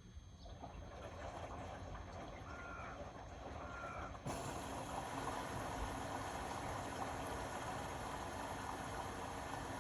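Indesit Innex BWE 91496X washing machine running with a steady rushing, water-like noise. The noise builds gradually, then jumps suddenly louder and brighter about four seconds in and holds steady.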